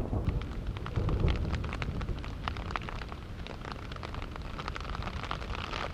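Rain falling on a tent: a dense, irregular scatter of separate drop hits over a steady hiss, with low rumbles near the start and about a second in.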